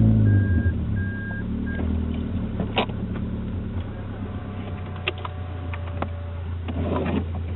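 Toyota Altezza engine with a straight-pipe exhaust heard from inside the cabin, settling from a rev, giving a short blip about two seconds in, then idling steadily. A short electronic beep repeats a few times in the first two seconds, and a few sharp clicks come later.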